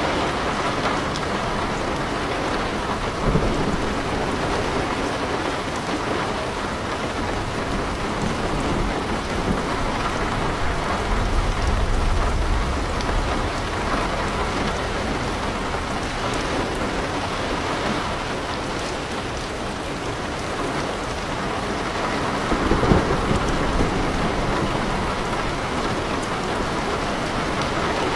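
Heavy rain falling steadily on leaves and a house, as an even hiss. A low rumble rises for a few seconds about eleven seconds in, and there are two brief jumps in loudness, near three and near twenty-three seconds in.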